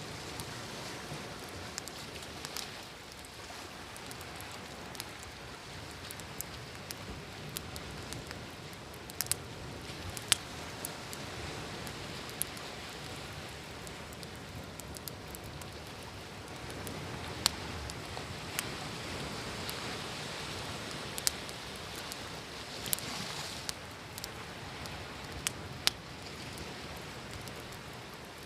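Wood fire crackling, with scattered sharp pops, over a steady wash of ocean waves that swells for a while in the second half.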